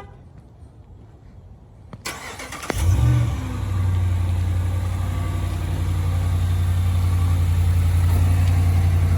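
A truck engine starts about three seconds in, with a brief surge as it catches. It then settles into a steady idle with a low hum.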